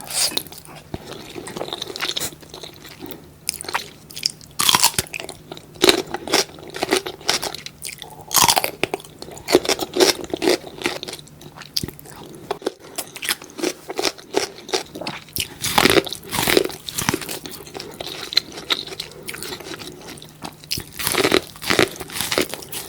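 Close-miked eating: crunchy bites and wet chewing, with many irregular crackles.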